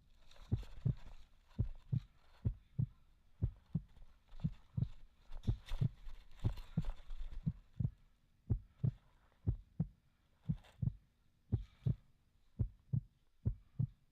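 Steady run of dull, low thuds, about three a second, as footsteps travel through a body-worn camera while the wearer walks, with some rustling in between.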